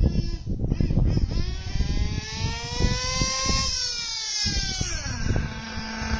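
Radio-controlled car's engine sound revving up over a couple of seconds, easing back down, and settling to a steady idle about five seconds in, with rough crackling underneath.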